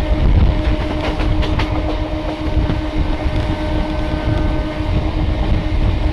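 Passenger train running at speed, heard from an open carriage doorway: a steady rumble of wheels on rails with a steady hum over it, and a few sharp clicks about a second and a half in.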